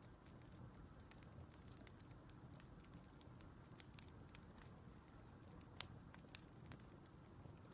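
Faint crackling of a wood fire: irregular small pops and snaps over a soft low rumble, with one sharper pop near the middle.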